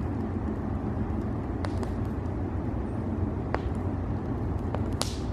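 Campfire crackling, a few sharp pops scattered over a steady low rumble.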